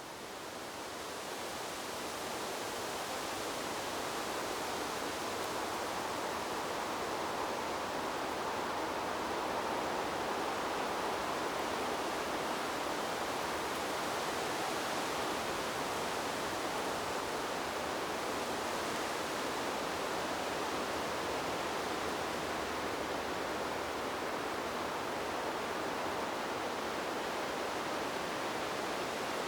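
Steady rushing noise of wind blowing through trees, even and without distinct gusts, fading up over the first few seconds and then holding level.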